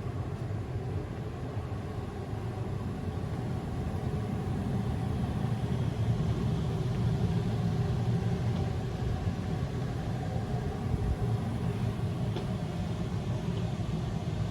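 Steady low mechanical rumble of a running vehicle, swelling slightly around the middle.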